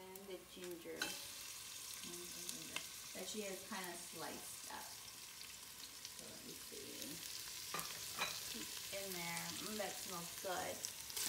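Sliced garlic frying in cooking oil in a stainless steel pot, the sizzle growing louder about a second in as sliced ginger and onion are slid in from a plate.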